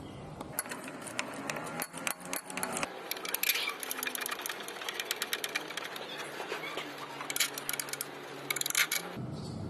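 Ratchet wrench clicking rapidly in spurts as the timing belt tensioner bolt is loosened so the tensioner can tighten the belt.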